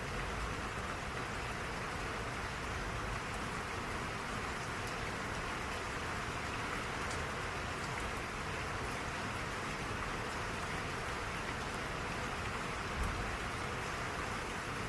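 Steady rainfall, an even hiss of rain with scattered drops pattering, and a single soft low thump near the end.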